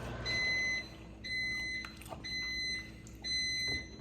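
Microwave oven beeping four times, about once a second, to signal that its cooking cycle has ended, just after its running hum stops.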